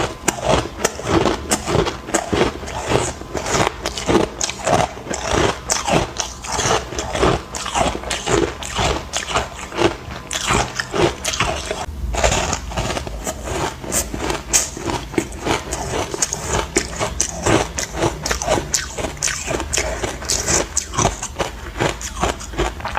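Close-up crunching of ice coated in matcha powder as it is bitten and chewed, a rapid, continuous run of crisp cracks and crunches.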